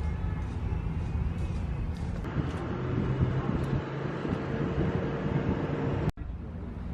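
Steady low outdoor rumble with faint voices in it; it cuts off abruptly for a moment near the end.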